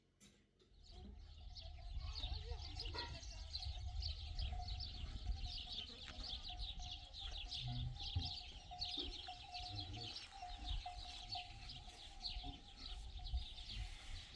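A dense chorus of small birds chirping continuously, many short high calls overlapping, starting about a second in, over a low rumble.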